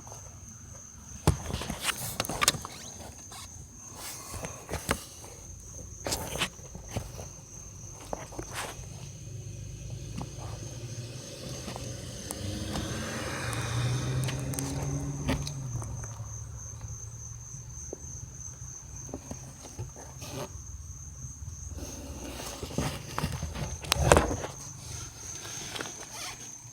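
Irregular clicking from a 2005 Dodge Dakota's HVAC air door actuator behind the glove box, over a low blower hum that swells for a few seconds midway. The clicking is the sign of a failing actuator that the owner means to replace.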